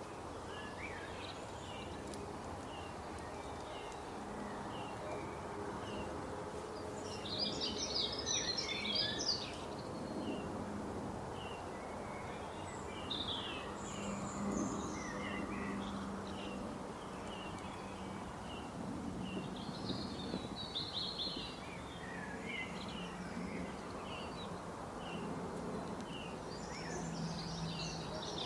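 Wild birds chirping over a steady outdoor background: short chirps repeat every second or so, with several louder bursts of twittering.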